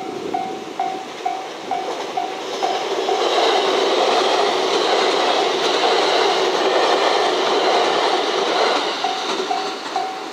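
A JR West 227 series electric train passes close by. Its running noise swells about two seconds in and fades near the end. A level-crossing bell rings about twice a second and is drowned out while the train goes by.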